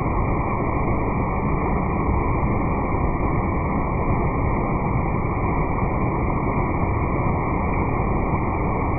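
Valley stream water rushing steadily, a low, muffled rush with no high end.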